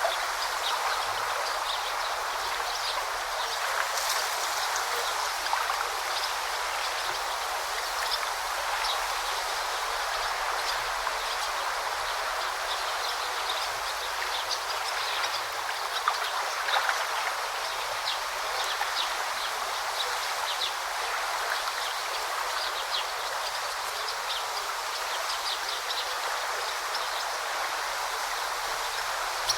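A river or brook flowing and babbling steadily, with many short, high bird chirps over the water throughout.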